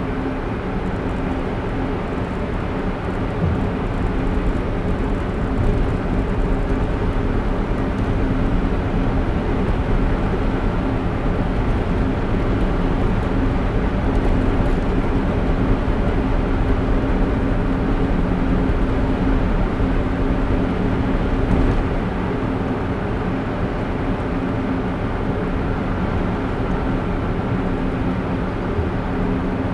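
A car driving along a road: steady tyre and engine noise with a low, even hum, getting a little quieter about three-quarters of the way through.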